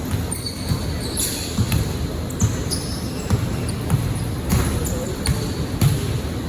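A basketball bouncing on a gym floor during play, irregular thuds a few times a second, mixed with short sneaker squeaks.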